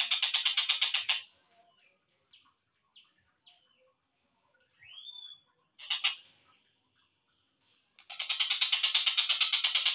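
Slowed-down recording of a tengkek buto kingfisher calling. A fast pulsed trill lasts about a second, followed by a few scattered short chirps and a single rising note. Near the end a long, loud rapid trill starts.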